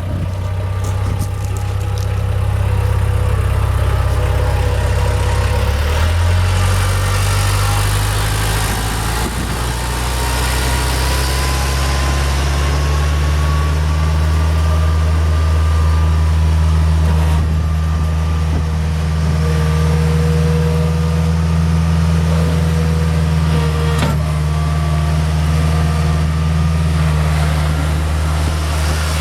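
Bobcat 743 skid steer's engine running steadily, its speed stepping up a little about six seconds in. A faint higher whine climbs in pitch shortly after.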